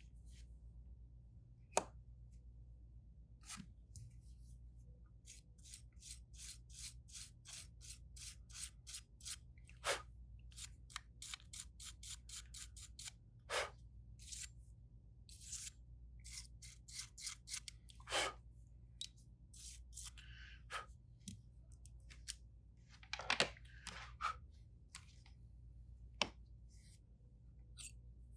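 Small hand tools working on a phone's parts: a run of faint, quick scraping clicks, about two or three a second, with a few louder single clicks scattered through and a steady low hum beneath.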